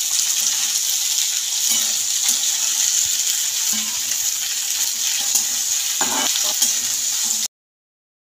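Cut okra sizzling as it fries in hot oil in a kadhai over a high flame, stirred with a spatula that scrapes the pan now and then. The sizzle cuts off suddenly near the end.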